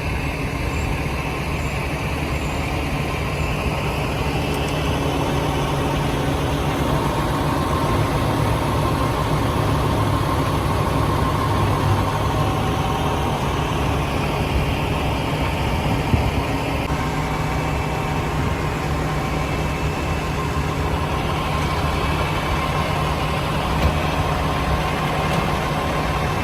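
Truck engine running at a steady idle, an even low hum with a few faint steady higher tones over it.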